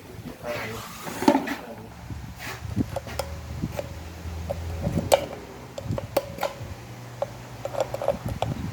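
Scattered metallic clicks and knocks of hand tools and internal parts being handled during the teardown of a 5R55S automatic transmission, over a low steady hum.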